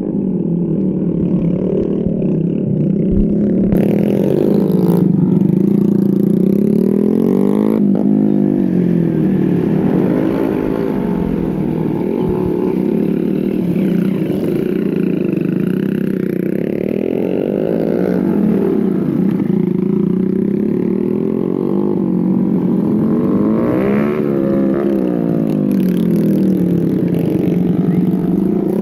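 Motorcycle engine running, its pitch rising and falling several times as it revs up and eases off.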